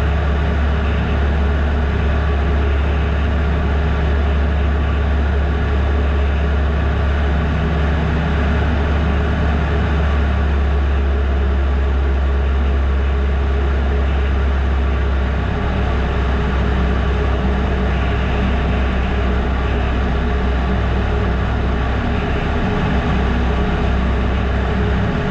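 Piper Super Cub's 150-horsepower four-cylinder engine and propeller droning steadily, heard inside the small cabin with airflow noise, at reduced power for an approach with carb heat on. The low drone shifts slightly about fifteen seconds in.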